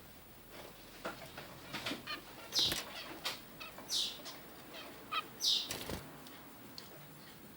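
Zebra finches calling: a series of short, sharp chirps, three of them loudest, with softer stuttering chirps in between and a couple of brief thumps or wing flutters.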